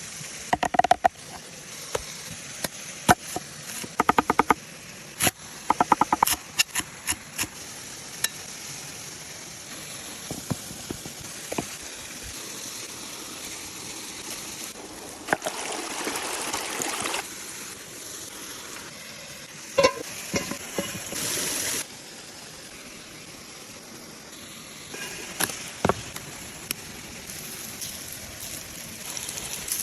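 Food sizzling on a hot stone: a steady hiss that swells louder for a couple of seconds at a time, broken by scattered sharp clicks and knocks as it is handled.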